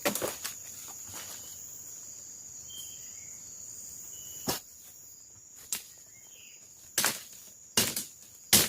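Forest insects making a steady, high-pitched drone, broken by irregular sharp knocks that come closer together near the end.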